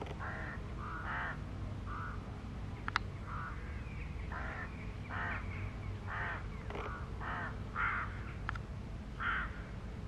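A bird calling over and over, about a dozen short calls spaced roughly a second apart, over a steady low rumble, with two sharp ticks about three seconds in and near the end.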